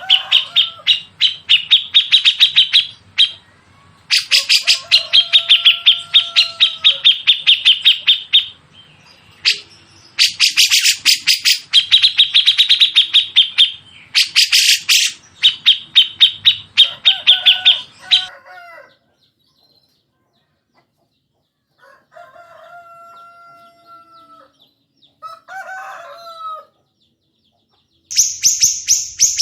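Songbird chattering in long, fast trains of rapidly repeated notes, with a lower drawn-out call sounding between them. The chatter stops about two-thirds through, leaving a few faint calls, then a loud burst starts again near the end.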